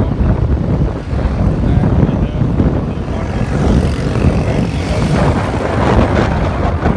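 Wind noise on the microphone of a moving motorbike, mixed with road and traffic noise. The noise grows brighter for a few seconds around the middle.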